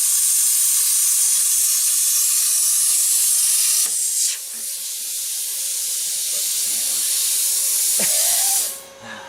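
Loud steady hiss of compressed air rushing out. It dips briefly about four seconds in and cuts off near the end.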